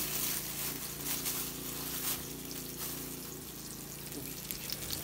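Fish sizzling as it fries in oil in a pan: a steady crackling hiss, over a low steady hum.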